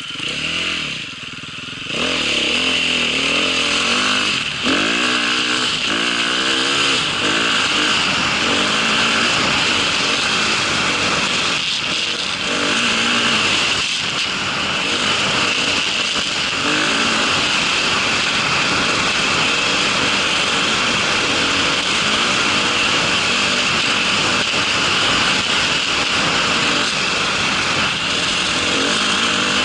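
Small motor vehicle engine revving up and down several times over the first few seconds, then running steadily.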